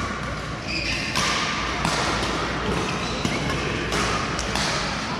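Badminton play on an indoor court: several sharp racket hits and thuds of players' footfalls, over a general din of voices in the hall.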